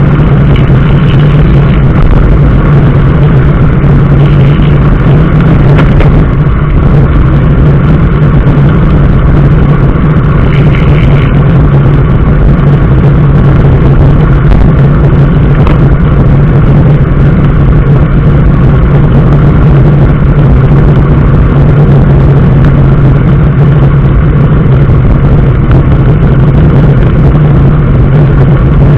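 Steady drone of a road vehicle on the move, engine and road noise running loud and unbroken with a strong low hum, with a few brief faint high tones about a second in, at about four and a half seconds, and at about ten seconds.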